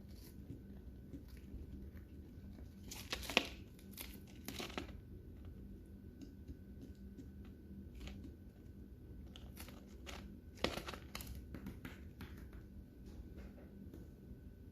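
Lovebirds cracking and chewing seeds: irregular small crunches and crackles, in two busier flurries about three and ten seconds in.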